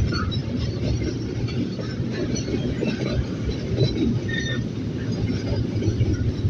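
Train running on the rails: a steady rumble.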